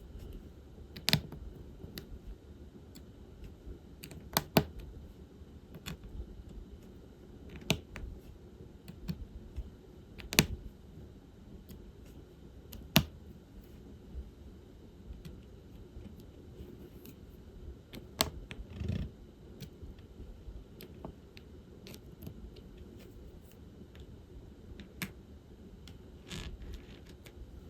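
Small, sharp clicks and taps at irregular intervals, a second or a few seconds apart: a diamond painting pen picking up resin drills from a tray and pressing them onto the sticky canvas. A brief scratchy rustle comes about two-thirds of the way in.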